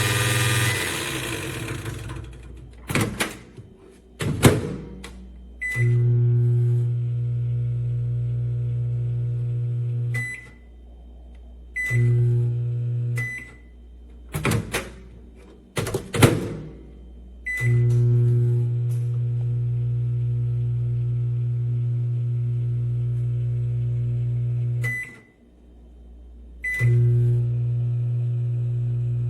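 Frigidaire EMW727 compact microwave oven running with a steady low hum in four separate runs, each from about one to seven seconds long, with a short beep where each run starts or stops. Several sharp clunks, the loudest sounds, fall between the runs.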